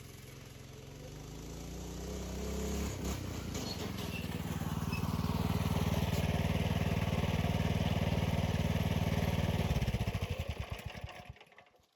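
Small minibike engine picking up speed, its pitch rising over the first few seconds. It then runs steadily and is shut off about ten seconds in, dying away quickly.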